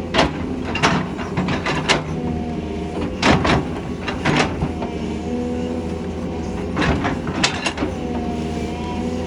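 Doosan excavator's diesel engine running steadily under hydraulic load, its pitch dipping and recovering every few seconds as the hydraulics work, with repeated sharp clanks and knocks of the bucket and machine working dirt.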